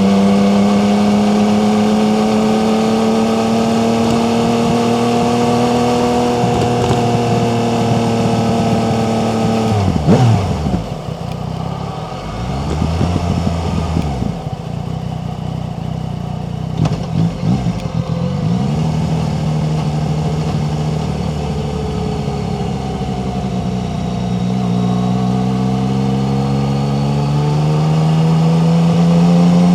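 Yamaha MT-09 three-cylinder motorcycle engine under way, its revs holding and slowly climbing. About ten seconds in the revs drop sharply and dip and rise several times as the bike slows. Near the end it pulls up through the revs again.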